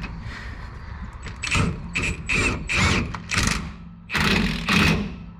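A ratchet on an 18 mm socket is worked in a run of about seven short bursts, roughly two a second, tightening an F-150 rear shock's mounting bolt with a 15 mm wrench backing it up.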